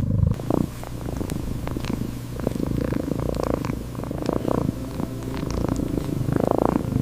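Domestic cat purring steadily, a low rumble that swells and eases over and over.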